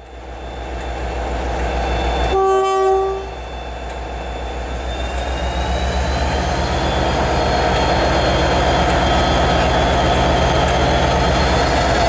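Class 57 diesel locomotive's two-stroke EMD engine running under power as the train pulls away, with one horn blast about a second long a couple of seconds in. After the horn the engine grows steadily louder, with a faint rising whine.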